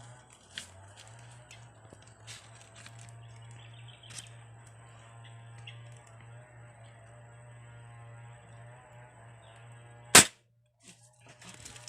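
One sharp shot from an air rifle about ten seconds in, short and far louder than anything else. Before it, a faint steady low hum and a few soft clicks.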